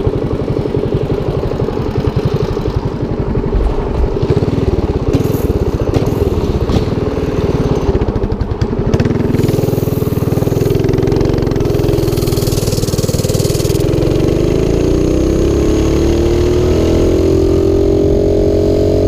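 A Motovox mini bike's 212cc single-cylinder four-stroke engine running hard at wide-open throttle on a top-speed run. Over the last few seconds its pitch climbs steadily as the bike gathers speed.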